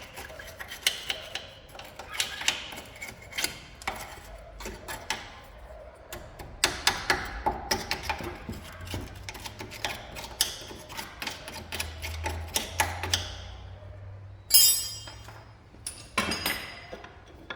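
Metal hand tools clicking and clinking in irregular strokes: wrenches and sockets at work on the truck's front suspension bolts, with a sharp metallic clatter about three quarters of the way through.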